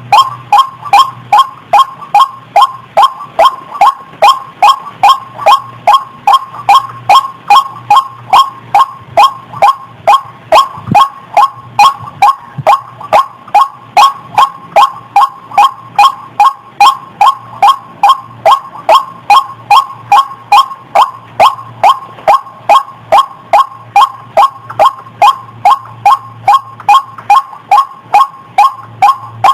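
White-breasted waterhen (ruak-ruak) calling: a loud, short note centred around 1 kHz, repeated monotonously at an even pace of a little over two calls a second.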